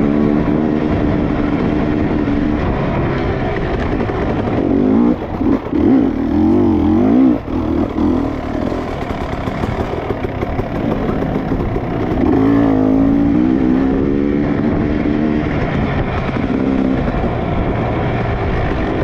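Dirt bike engine running on the move, its pitch rising and falling over and over as the throttle opens and closes.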